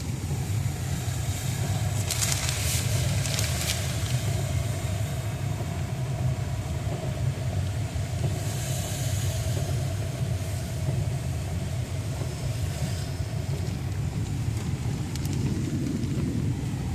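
Steady low rumble of a car or truck running, heard from inside the vehicle, with a few brief crackles about two to four seconds in.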